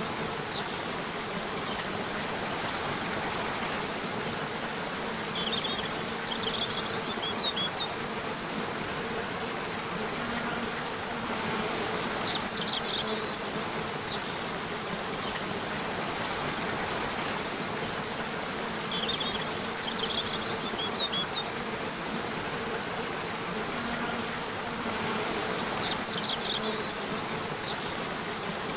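Insects buzzing steadily over a continuous rushing haze like flowing water, with short clusters of high chirps about every six or seven seconds.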